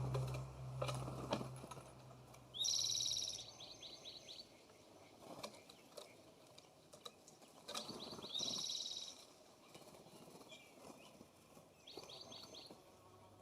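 Small songbird calling: a short, high trilled phrase, a quick rising note then a rapid run of pulses, heard three times about four to five seconds apart. A low hum fades out in the first few seconds.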